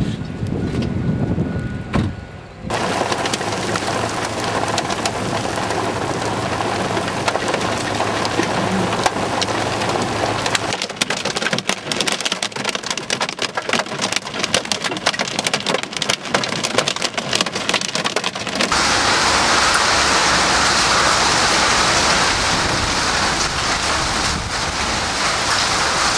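Hail falling and striking surfaces, over several shots. It starts as a low rumble like wind on the microphone. This gives way to a dense steady hiss, then to a stretch of many separate sharp hits from individual hailstones, and near the end to a louder, steady hiss of heavy hail.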